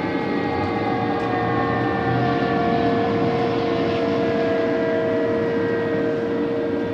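Fire engine responding with its siren sounding, the siren's pitch sliding slowly downward, over the heavy rumble of the truck's engine and road noise.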